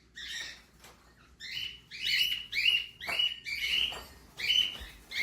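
A small animal's short, high-pitched calls, repeated about twice a second and getting louder after the first second or so.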